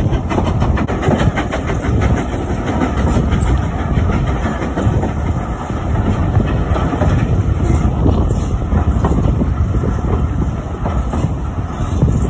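Steam-hauled heritage train running along the line, heard from the carriage: a steady running rumble with the wheels clicking over the rail joints in a quick, even rhythm.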